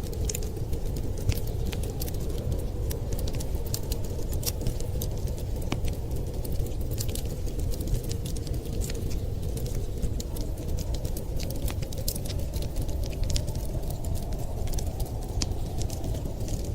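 Fireplace crackling, with many sharp, irregular pops and snaps over a steady low rumble of snowstorm wind.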